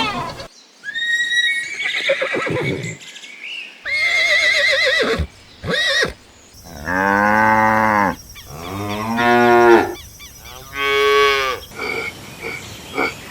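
Cattle mooing: three drawn-out calls in the second half, each rising then falling, after a run of shorter, higher-pitched animal calls.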